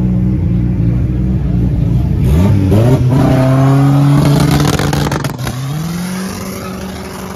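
A drag car's engine at the start line: running loud and steady, then revving up about two seconds in and holding high revs, dipping briefly about five seconds in and rising again.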